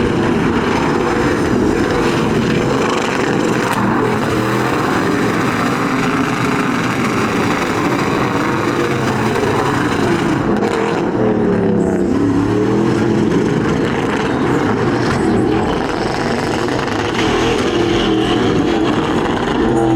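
Vehicle engine revving hard and continuously, its pitch dropping and climbing back up about halfway through.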